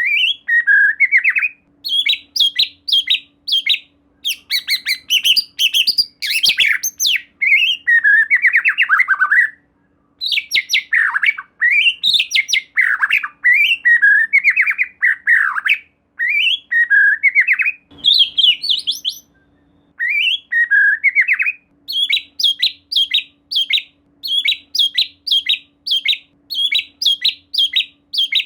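White-rumped shama (murai batu) singing loudly in phrases of rapid, repeated notes broken by short pauses. In the last third the song settles into a run of short notes repeated about three times a second.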